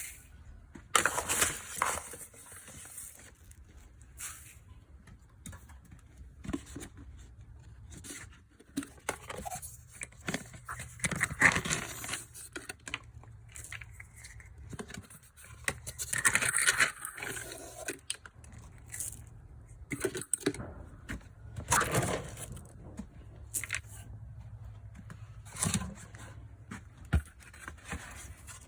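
Irregular scraping, rustling and rattling of horse grain and supplements being scooped and poured into feed buckets, with sharp clicks and louder scrapes every few seconds.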